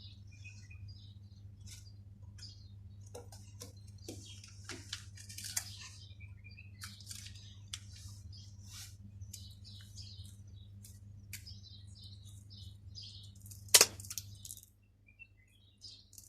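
Feathers rustling and soft scratching as a pigeon's wing is held and spread for clipping, with one loud sharp snip of scissors cutting through a flight feather near the end, over a steady low hum that stops soon after.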